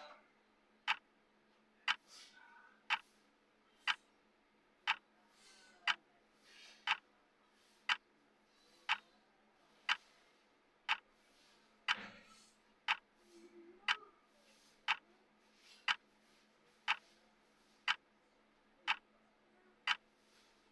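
Clock-style ticking of a countdown timer, one sharp tick every second, over a faint steady hum.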